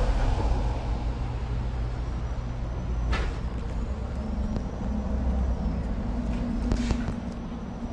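A steady low engine hum, with two short knocks about three and seven seconds in.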